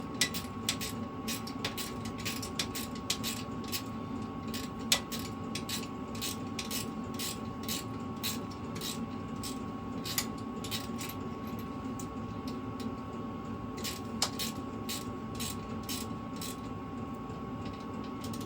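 Small metal parts clicking and tapping as a nut, washer and bolt are handled and fitted by hand, with a few sharper clinks, over a steady background hum.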